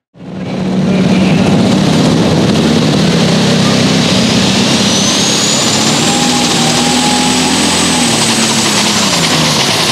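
Super stock pulling tractor's turbocharged diesel engine running hard at full power, with a high turbo whistle that rises in pitch over several seconds and eases off near the end.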